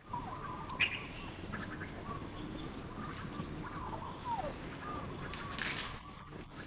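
Animal calls outdoors: a series of short, thin calls at about the same pitch, one sliding down near the middle, with a sharp click about a second in and a brief rustling burst near the end, over a steady background hiss.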